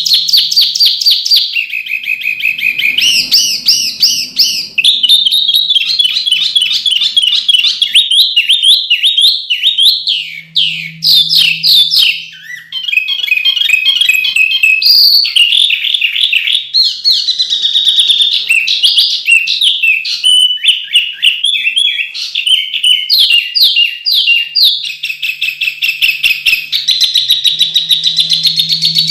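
A songbird singing without pause in fast, varied phrases of sharp repeated notes, trills and quick rising and falling whistles: dense 'tembakan' song of the kind played as a masteran to teach caged birds.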